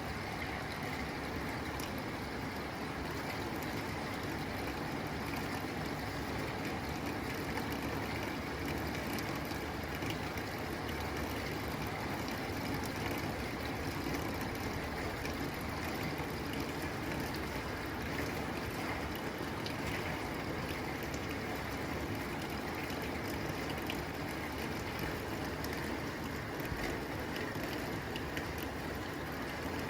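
Steady rain falling on a tin roof: a dense, even patter of drops on the metal.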